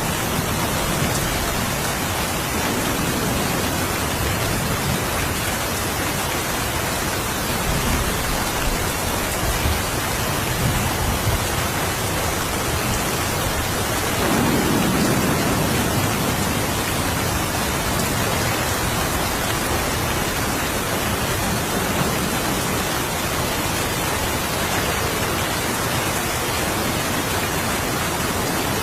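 Steady rain, an even hiss with no pauses, with a brief deeper swell in the low end about halfway through.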